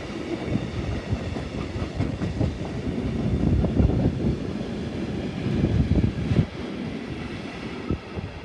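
Freight train wagons rolling past, steel wheels clattering over the rail joints in a dense run of low knocks and rumble. It is loudest around the middle and eases off a little near the end.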